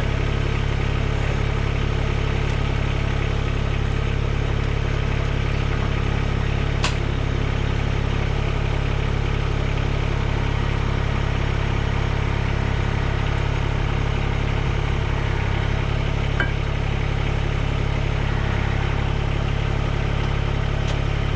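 Mahindra eMax 20S HST compact tractor's three-cylinder diesel engine idling steadily, with a single sharp click about seven seconds in.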